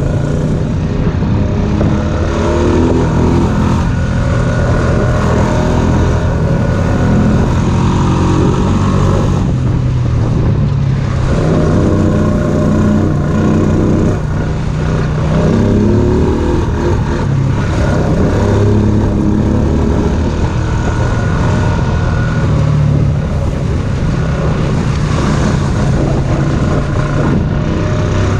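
Small Honda ATV engine running under way on a muddy trail, its pitch rising and falling as the throttle opens and eases off.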